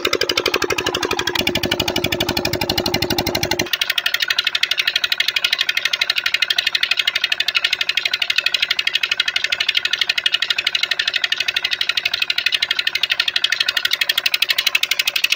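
Diesel engine running a tubewell pump, running steadily with an even, rapid firing beat. Its lower, deeper tones drop away about four seconds in, leaving a thinner, higher clatter.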